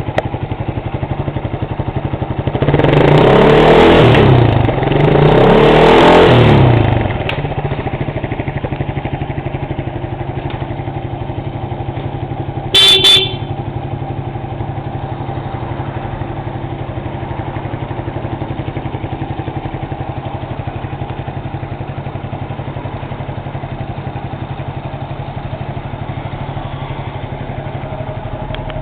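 Honda FTR223's single-cylinder four-stroke engine, breathing through an aftermarket RSV muffler, idling steadily and revved twice in quick succession. About halfway through, the bike's horn gives a brief beep.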